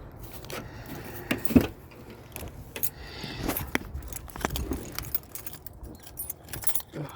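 Scattered handling clicks and knocks with a metallic jingle, like keys being handled, and one louder knock about a second and a half in.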